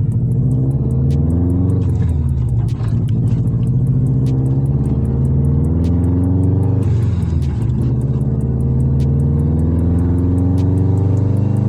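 Straight-piped Subaru Impreza WRX's turbocharged flat-four exhaust under hard acceleration through the gears. The pitch climbs in each gear and drops at two upshifts, one about a quarter of the way in and one a little past the middle.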